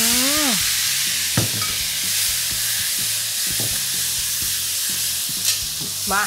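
Marinated liver sizzling steadily in hot oil in a wok, high-heat stir-frying, while a metal spatula stirs it with faint scrapes and taps against the pan.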